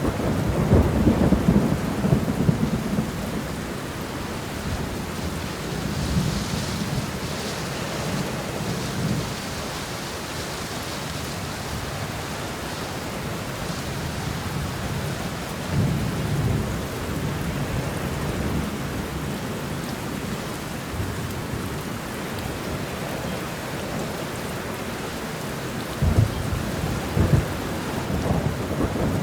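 Steady rain falling, with rolling rumbles of thunder: a loud one in the first few seconds, a shorter one around the middle, and another building near the end.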